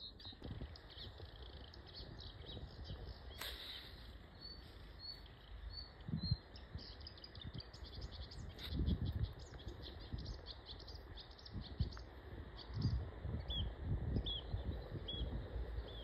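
Small songbird calling: series of short, high chirps repeated about two to three a second, over a low gusty rumble.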